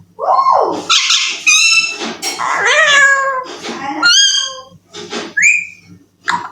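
Alexandrine parakeet calling: a string of about half a dozen loud squawks and whistled notes that glide up and down, some harsh and raspy, separated by short gaps.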